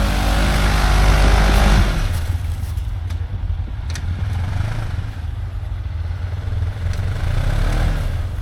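Side-by-side UTV engine revving hard, then letting off about two seconds in and settling to a low idle, with a slight rise in revs near the end.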